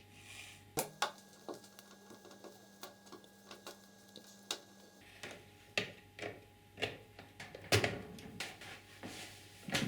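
Irregular light clicks and knocks from small parts being handled. A faint steady hum sounds through the first half and then stops.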